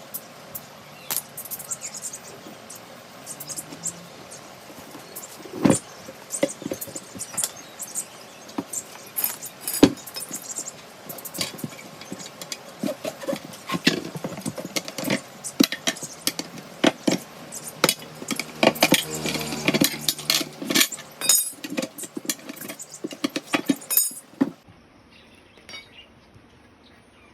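Irregular metallic clicks, clinks and knocks of hand tools at work on a tractor tyre, with sharper strikes about six and ten seconds in and a busy run of them before they stop a few seconds before the end.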